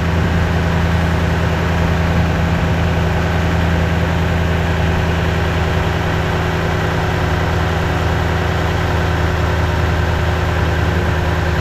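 2010 Toyota Tundra's engine idling steadily, with an even, unchanging hum. It is running normally again once the fuel system was primed and its relay put back in the right slot.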